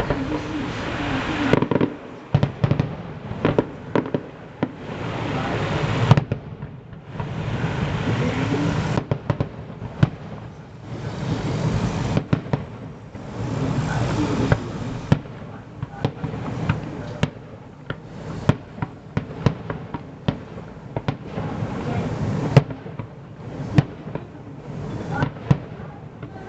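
Aerial fireworks display: a steady run of sharp bangs from bursting shells, with several stretches of dense crackling lasting a second or more each.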